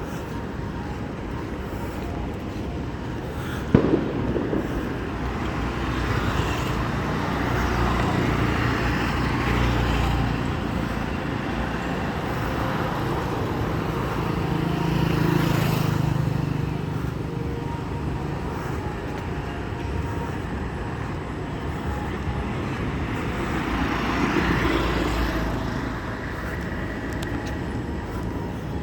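Road traffic: vehicles passing one after another, their running swelling and fading several times, with a sharp knock about four seconds in.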